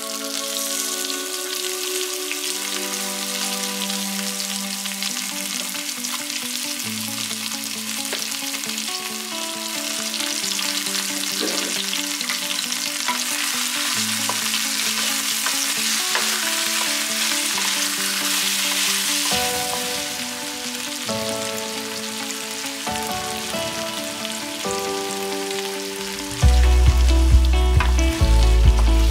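Chicken pieces frying and sizzling in hot oil in a nonstick pan, stirred with a wooden spatula, under background music. Near the end the music gets louder with a deep bass beat.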